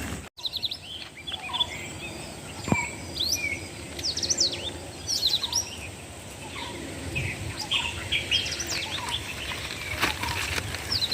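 Birds chirping with many short rising and falling notes over steady outdoor background noise. There is a brief dropout just after the start.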